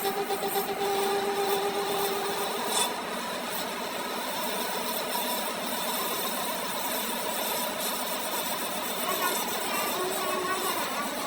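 Metalworking tool noise: a steady pulsing machine tone for the first two and a half seconds or so, then an even scraping, rasping noise of tool on metal.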